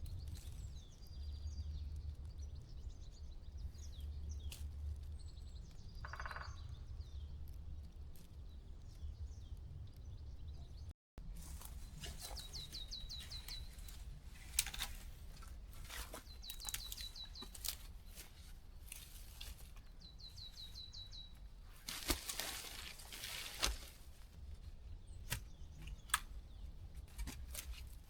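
Woodland birdsong: a short, rapid trill repeated three times in the second half, over a low steady rumble. A few sharp knocks and a couple of seconds of rustling come through late on.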